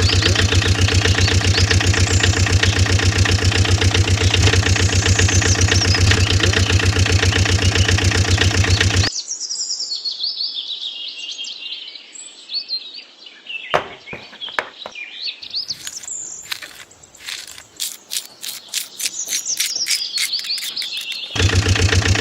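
Small birds chirping and tweeting in quick repeated calls. For about the first nine seconds a loud, steady, pulsing drone runs underneath; it cuts off abruptly and comes back just before the end.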